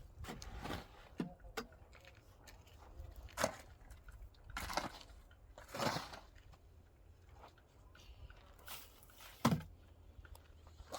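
Scattered scrapes, rustles and knocks of objects being handled, with a sharper knock about nine and a half seconds in.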